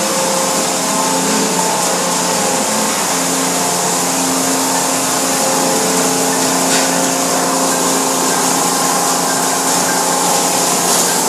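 Car wash machinery running: a loud, steady rushing noise with a faint hum underneath.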